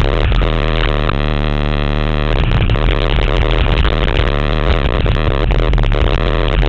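Pontiac Firebird's engine and exhaust driven hard through an autocross course, heard with wind and road noise on a microphone mounted outside the car near the front wheel. About a second in, the engine holds one steady note for about a second before it is lost again in the louder mixed noise.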